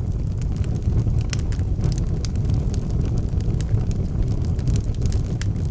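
Wood fire crackling, with scattered sharp pops and snaps over a steady low rumble of blizzard wind.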